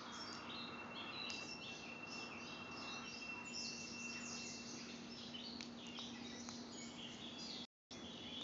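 Faint birds chirping outdoors, with a faint steady hum underneath. The sound cuts out completely for a moment near the end.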